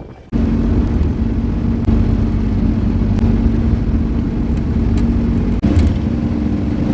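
A vintage Mercedes-Benz W111 being driven: a steady engine drone with road noise. It starts suddenly, and there is a brief dropout about two thirds of the way through.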